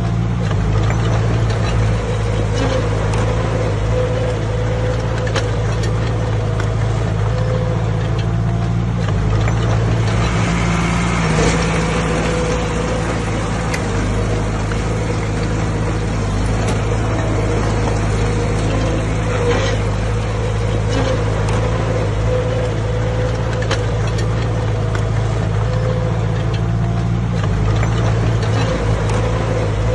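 Diesel engine of heavy earthmoving machinery running steadily, with a brief stretch of added hiss about ten seconds in.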